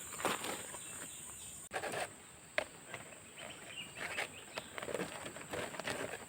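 Irregular rustling and crunching on forest-floor leaf litter, over a steady high-pitched insect drone.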